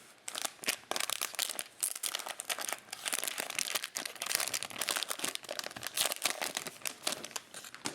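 Plastic wrapping of Topps Chrome baseball card cello packs crinkling and crackling continuously as it is handled and opened.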